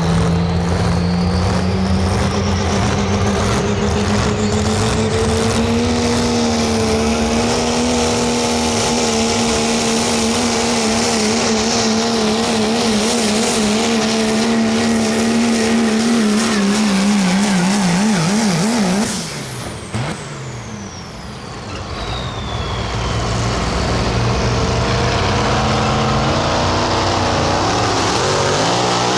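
Limited pro stock diesel pickup's engine running flat out under load while pulling the sled, its pitch holding steady for about nineteen seconds and wavering near the end. It then lets off abruptly, the turbocharger's whistle winds down over a few seconds, and the engine picks up again.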